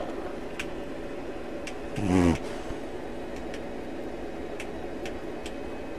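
A sleeping English Mastiff gives one short, low snore about two seconds in, over a steady hiss, with a few faint clicks scattered through.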